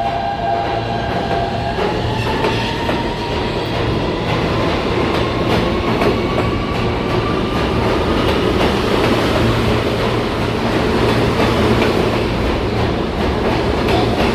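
New York City Subway train pulling out of the station, its traction motors whining upward in pitch as it gathers speed, over a steady rumble and wheels clicking over the rail joints.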